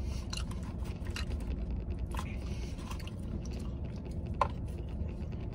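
A man chewing mouthfuls of animal-style fries, with scattered small clicks and smacks, over a steady low hum.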